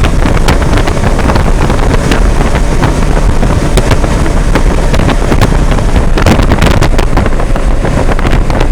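Heavy wind noise buffeting an action camera's bare microphone at riding speed, full of frequent crackles, over the running Kawasaki Versys 650's parallel-twin engine.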